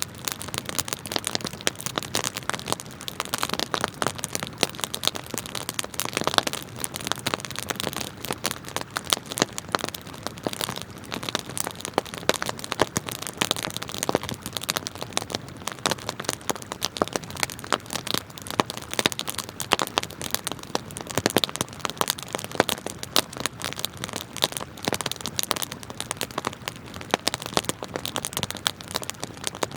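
Wood campfire burning, with dense sharp crackles and pops over the steady rush of flowing river water.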